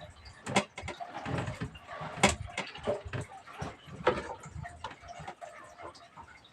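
Irregular knocks and clicks, a few sharp ones standing out, over low uneven thuds.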